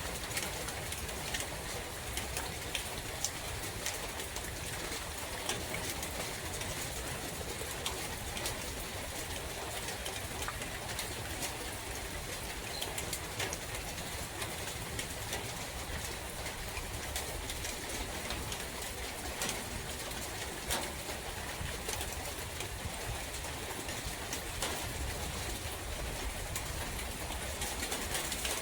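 Steady rain falling in a forest, with scattered sharp drip ticks over an even hiss and a low rumble of wind. A bird calls now and then over the rain.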